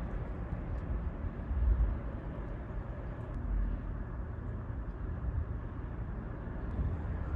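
Wind from a snowstorm buffeting the phone's microphone: a steady low rumble with stronger gusts about two and three and a half seconds in.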